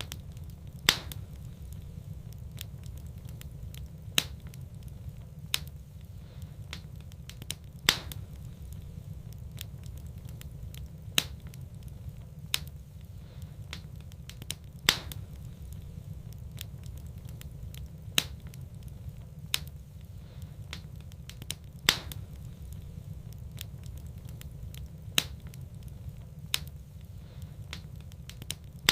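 Wood fire burning in a fireplace, crackling with sharp pops every second or few over a steady low rumble.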